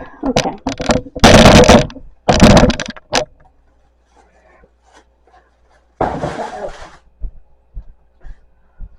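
Food containers and packaging being handled and thrown out while a refrigerator is cleared: a few clicks and knocks, two loud noisy bursts about a second and two and a half seconds in, and another about six seconds in, followed by a few light thumps.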